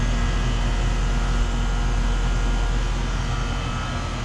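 Central air-conditioner condensing unit running up close: a steady compressor hum and the whoosh of the condenser fan, with a low drone underneath. It grows a little quieter near the end.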